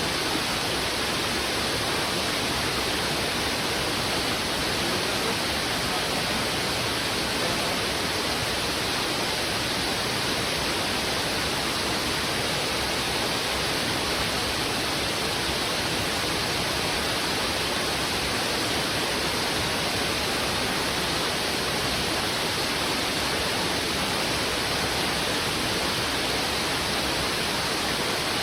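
Fast, heavy river water rushing over rocks, a steady, unbroken rush.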